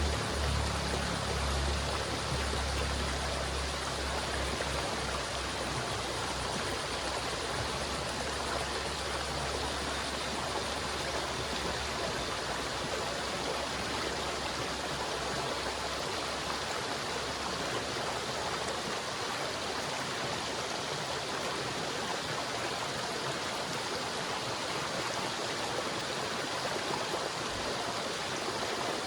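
River water flowing in a steady, even rush. A low rumble underneath fades out over the first few seconds.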